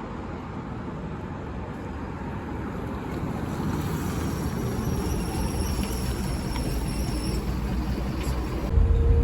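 Steady rumble and rushing noise of a moving vehicle, growing slightly louder, with a sudden jump in loudness near the end.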